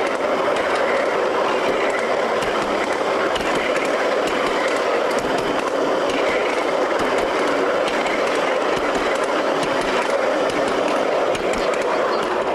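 A 5-inch gauge miniature railway train running on its track, a steady rolling rattle with scattered clicks of the wheels over the rails.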